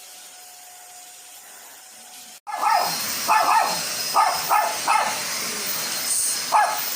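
Quiet room tone, then from about two and a half seconds in a dog barks and yips repeatedly, about twice a second, over a steady hiss.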